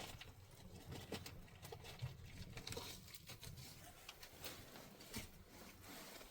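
Faint, irregular light taps and clicks over a low steady hum.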